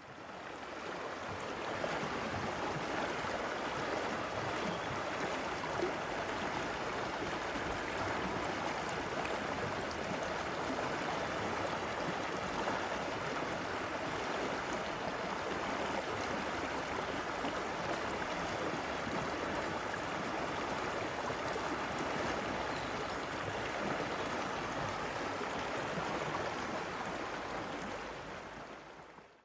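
River water flowing steadily, a constant rush that fades in at the start and fades out at the end.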